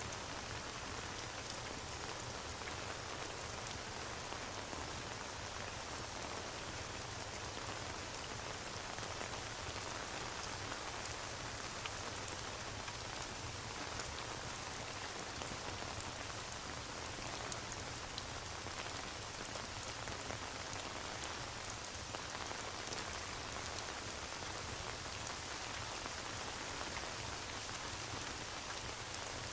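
Steady rain ambience with a fireplace crackling in the mix: an even hiss of rain sprinkled with many small sharp ticks.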